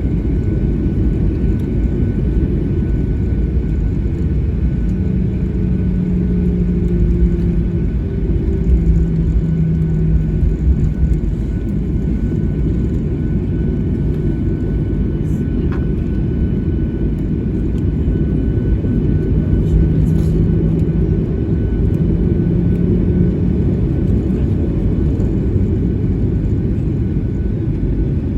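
Cabin noise inside a Boeing 737-800 on the ground before takeoff: a steady low rumble from the engines and air systems with a faint steady high whine. A humming tone comes in twice over it.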